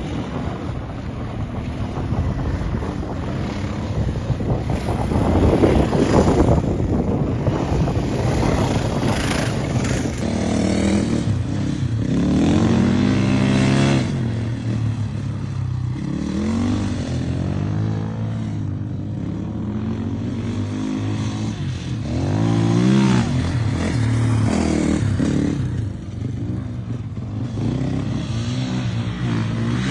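Motocross bike engine revving up and down as it is ridden over rough ground, with the pitch rising and falling again and again. For the first third the engine is half-buried under a rush of wind noise, then it suddenly comes through clearer.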